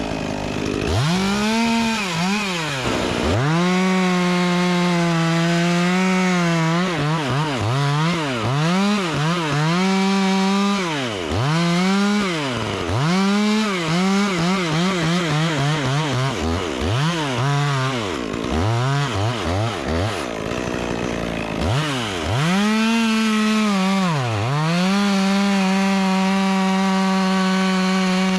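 Two-stroke chainsaw revving hard again and again: held at full throttle for several seconds near the start and again near the end, with many short revs dropping back to idle in between, as when cutting wood.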